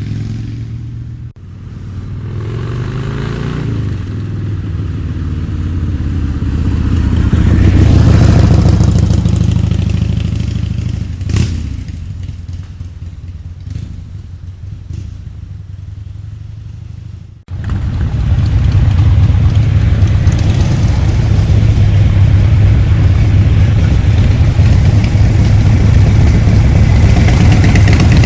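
Motorcycle engines running and revving, pitch rising and falling several times, then a steady loud running engine sound in the second half. The sound changes abruptly twice, as between spliced recordings.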